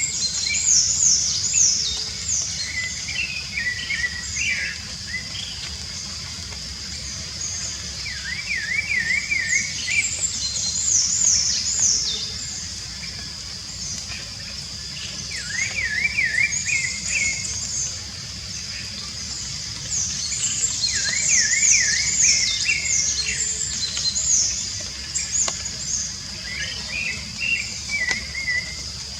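Rufous-bellied thrush singing in bursts of quick, high chirping and warbling phrases every few seconds, over a steady high-pitched whine and a low background hiss.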